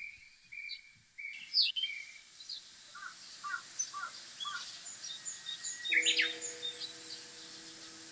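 Several birds calling and chirping: a run of four short level notes, then four paired lower notes, with high chirps scattered throughout. A steady low hum comes in about six seconds in.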